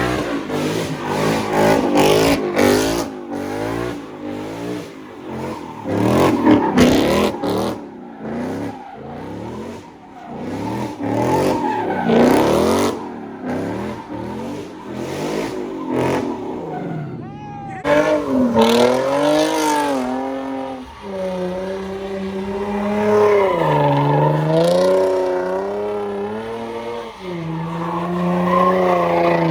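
A car doing donuts: the engine is held at high revs, its pitch rising and falling over and over, with tyres squealing and screeching. In the last ten seconds or so the engine note stands out more clearly, swinging up and down with the throttle.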